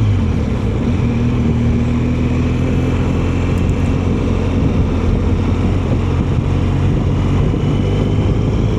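BMW R1200GS boxer-twin motorcycle under way at steady road speed on a wet road: an even engine note under wind and tyre noise, with a slight fall in pitch over the first few seconds.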